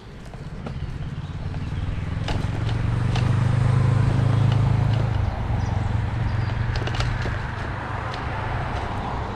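A motor vehicle passing on a nearby road. Its low engine rumble swells to a peak about four seconds in and then slowly eases off. Light scattered clicks of footsteps on a path run under it.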